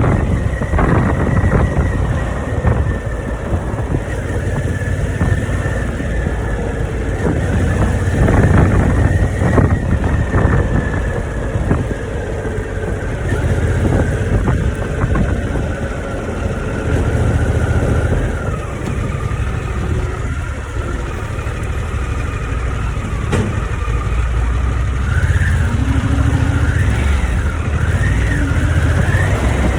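Harley-Davidson V-twin engine running under way on the road, its rumble rising and easing as the rider works the throttle, with a high whine sliding slowly down in pitch.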